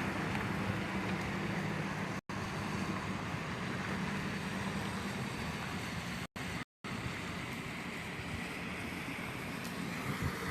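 Steady road and engine noise inside a moving car's cabin, cut by three brief complete audio dropouts, at about two seconds in and twice near the middle.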